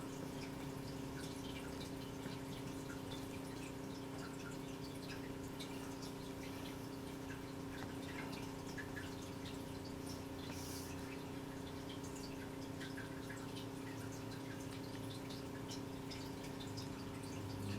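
A steady low hum of several fixed tones runs under faint, irregular light ticks and clicks from small metal parts: a tiny screwdriver working the terminal screws of a solderless 3.5 mm stereo plug.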